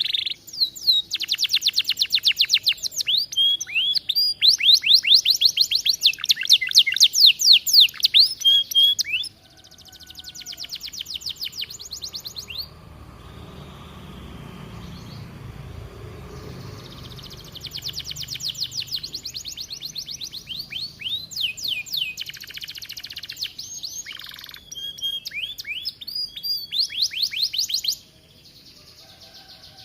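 Domestic canary singing long, loud runs of rapid trills: fast repeated notes, high in pitch. The song breaks off for a few seconds about halfway through, then resumes and stops abruptly near the end.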